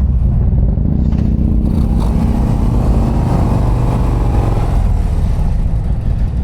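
The 121-cubic-inch V-twin of a stock 2024 Harley-Davidson CVO ST running on the road, its note rising about two seconds in as the bike pulls out of a turn, then easing off.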